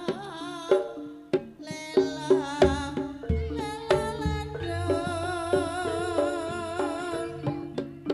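Live Javanese folk-dance music: a slompret reed trumpet playing a wavering, ornamented melody over hand-drum strokes and struck metal gamelan keys in a steady rhythm. A deep low note enters about three seconds in and holds under the ensemble.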